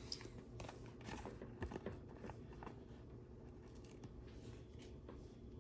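Faint scattered clicks and light rustling of small plastic LEGO pieces being handled, busier in the first few seconds.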